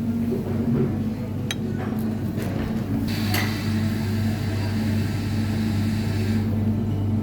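Steady low hum of appliances in a hotel breakfast buffet, with a few light clinks of tableware and a soft hiss from about three seconds in to past six seconds.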